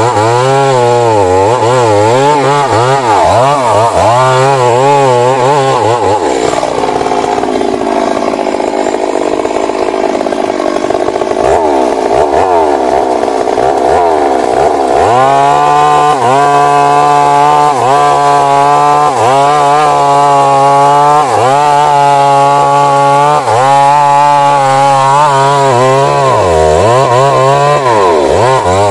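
Stihl MS 382 two-stroke chainsaw cutting into a large tree trunk, its engine speed sagging and picking up again and again under the load of the cut. In the middle stretch it runs steadier for several seconds before the repeated dips return.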